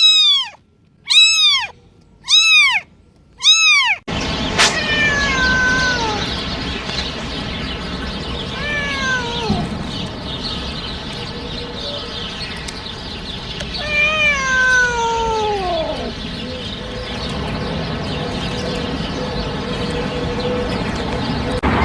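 Domestic cats meowing: first four short meows about a second apart, each rising and falling in pitch, then, after a sudden change to a noisier recording with a steady hiss, three long meows that slide downward in pitch.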